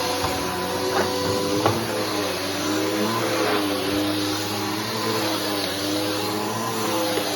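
Bissell Powerforce Helix upright vacuum cleaner running steadily, its motor pitch wavering slightly up and down as it is worked. Two small clicks at about one and one and a half seconds in.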